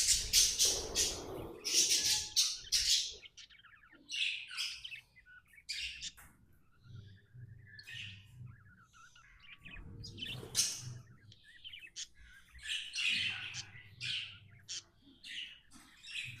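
Budgerigar chirping and tweeting in quick, irregular bursts, loudest and densest over the first three seconds.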